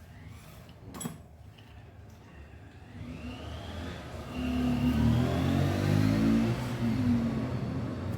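Yamaha RayZR scooter engine revving, the sound building from about three seconds in with a rising whine, loudest in the middle and easing toward the end. A single click about a second in.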